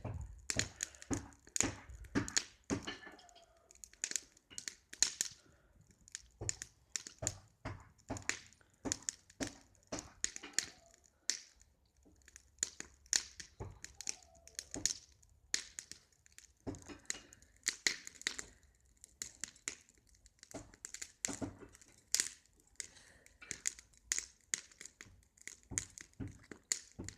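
Large wood bonfire crackling, with many irregular sharp snaps.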